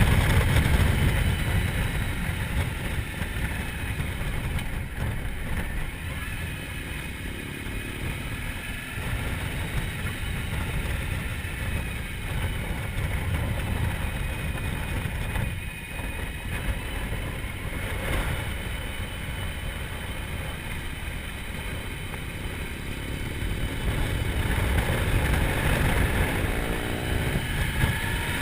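Motorcycle engine running on the move under heavy wind rumble on the microphone, its note climbing and growing louder near the end.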